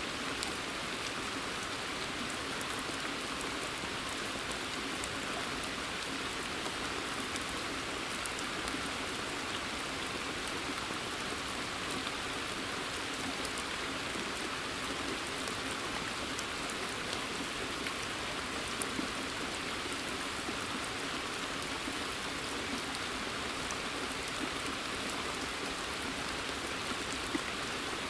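Steady rain falling in a forest, an even patter with a single drop standing out now and then.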